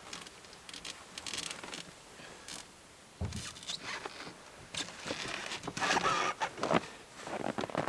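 Irregular rustling and scraping of fabric and gear being handled, with a dull thump about three seconds in, getting louder toward the end.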